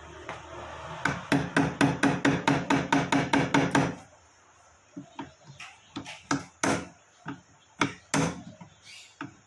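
Hammer tapping the drive pulley onto the washing machine's shaft: a quick, even run of taps, about five a second, for some three seconds, then slower single taps.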